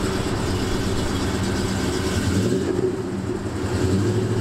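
1976 Ford Gran Torino's 351 Windsor V8 running through its Flowmaster dual exhaust, just after being started. It holds a steady low engine note, swelling slightly near the end.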